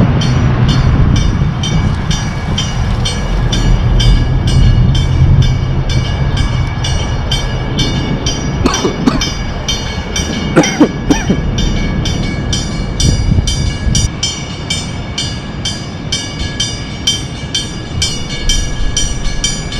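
Train rolling past, its wheels clacking evenly at about two or three beats a second over a low rumble and a steady high whine.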